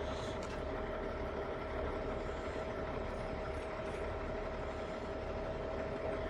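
Heavy diesel truck engine idling steadily, a low rumble with one steady tone held over it.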